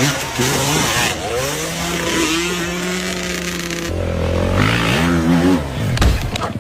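Off-road motorcycle engine revving, its pitch rising and falling several times, with a deeper engine note coming in about four seconds in.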